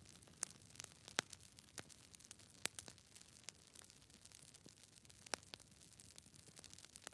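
Near silence: a faint hiss with scattered soft clicks.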